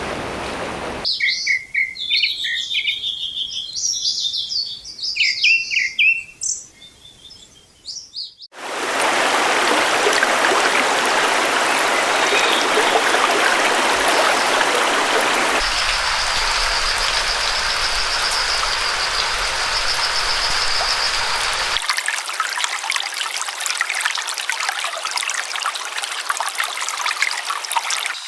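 A montage of nature recordings joined by abrupt cuts. First, several songbirds chirp and sing with little behind them. Then running water rushes steadily, and a high, even trill sounds over the water for several seconds in the middle before the water continues alone.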